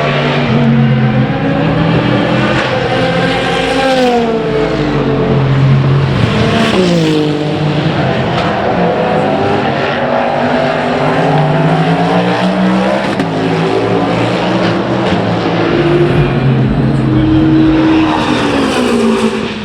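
Endurance racing cars' engines running hard at speed, several at once, their pitch rising and then falling steeply as cars go by.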